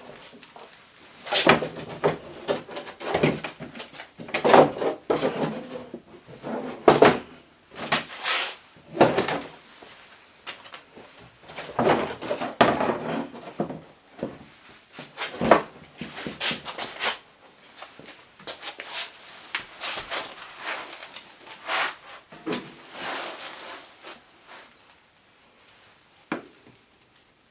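Irregular clunks, clicks and scrapes of hand tools and metal parts being handled while an ATV is stripped down, dying away in the last few seconds.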